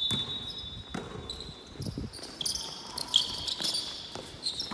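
Basketball bouncing on an indoor court, a few thuds, with short high squeaks of sneakers on the floor through the second half.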